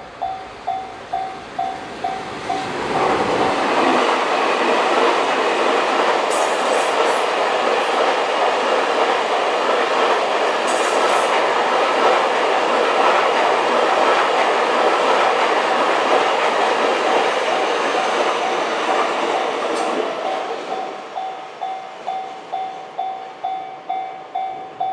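JR Freight M250 series Super Rail Cargo, an electric multiple-unit container train, passing close by at speed: a loud, steady rush of wheels on rail with some clatter. It swells about two and a half seconds in and fades around twenty seconds. Before and after the passage, a warning bell dings about twice a second.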